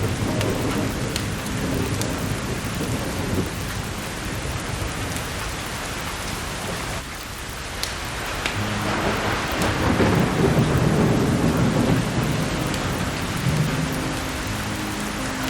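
Steady rain with rolling thunder that swells about eight seconds in and slowly fades, over scattered sharp crackles of burning firewood.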